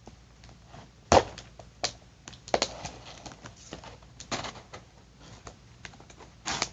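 Cardboard shipping box being worked open with scissors: scattered sharp clicks, snips and knocks at irregular intervals, the loudest about a second in.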